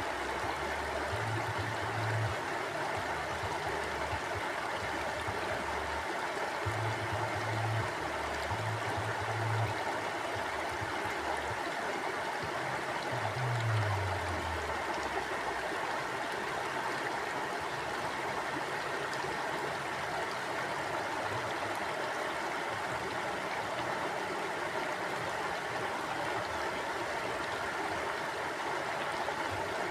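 A stream of water flowing steadily, an even rushing with no breaks. Underneath it a faint low hum comes and goes several times, dropping in pitch once about halfway through.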